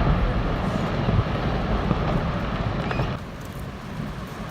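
Low rumbling roar of glacier ice collapsing into the sea and the wave it raises. It drops off sharply a little after three seconds in.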